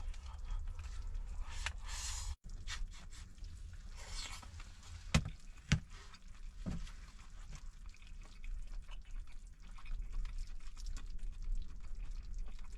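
Strong wind outside rumbling steadily against a small camper van, heard from inside. A few sharp knocks come about five to seven seconds in, with short hissing rustles earlier.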